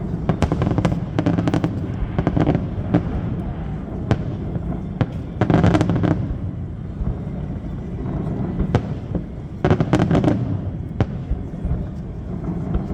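A fireworks display bursting overhead. Dense volleys of rapid crackling bangs come about a second in, around six seconds and around ten seconds, with single sharp reports between them over a steady low rumble.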